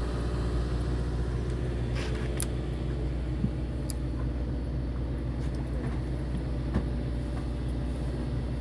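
A fishing boat's engine running steadily, a low even hum, with a few faint clicks.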